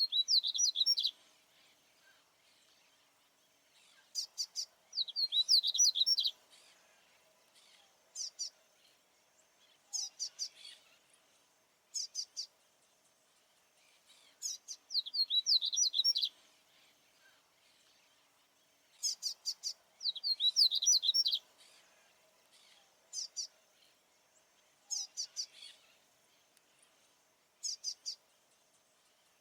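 A male papa-capim baianinho, a small Sporophila seedeater, singing repeatedly. He gives short high phrases every couple of seconds, with longer runs of quick descending notes alternating with brief clusters of chirps.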